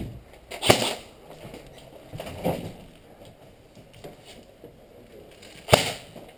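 Scattered single sharp cracks of airsoft guns firing, four in all, the loudest about a second in and again near the end.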